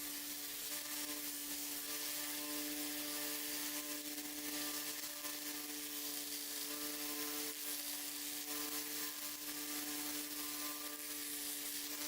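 Electric power tool running steadily through the knife-repair work, giving a constant hum over a hiss with no change in speed.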